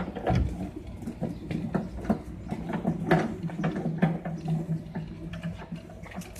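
Vacuum used on leaves, its motor giving a steady low hum while leaves and bits of debris going through it make irregular clicks and rattles.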